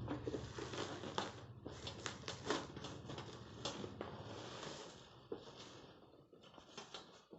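Packaging rustling and crinkling with scattered clicks and taps as it is handled and opened, dying down over the last couple of seconds.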